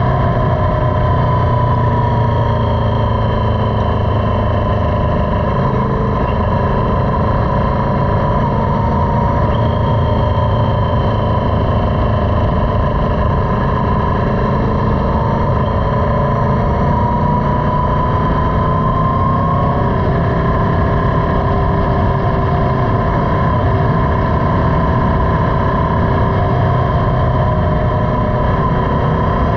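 Motorcycle engine running while riding, with a steady rush of wind. The engine's pitch rises and falls slowly.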